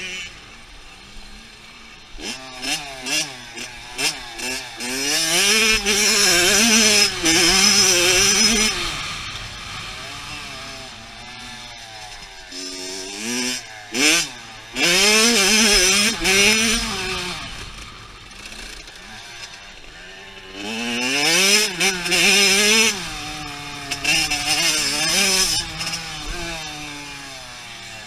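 Dirt bike engine revving hard and easing off repeatedly, its pitch climbing and dropping with each throttle burst. It is loudest in three stretches about five, fourteen and twenty-one seconds in, quieter in between.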